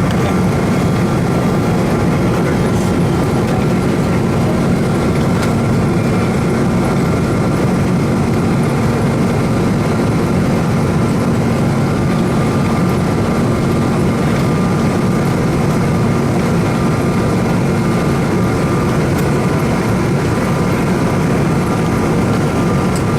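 Boeing 777-200ER jet engines running with a steady hum and whine, heard with a constant rumble as the airliner rolls on the ground, without spooling up.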